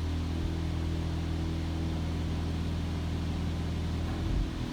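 PDQ LaserWash M5 touchless car-wash machinery running, heard from inside the car's cabin: a steady low hum with an even hiss of spray over it.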